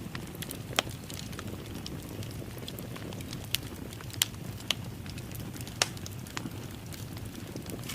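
Wood fire crackling in a fireplace: a steady low rumble of burning, with sharp pops and snaps at irregular intervals, a few of them louder.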